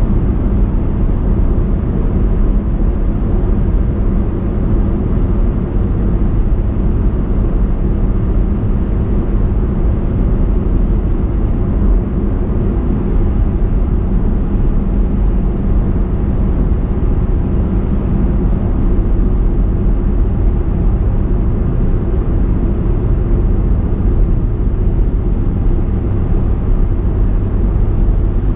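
Car driving at a steady speed: a constant low rumble of engine and tyre noise, with no sudden events.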